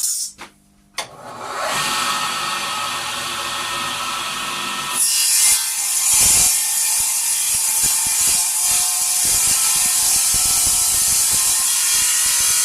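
A few knocks, then a 110-volt Elu power saw runs up about a second in and cuts a strip of solid timber steadily, its sound growing sharper about five seconds in.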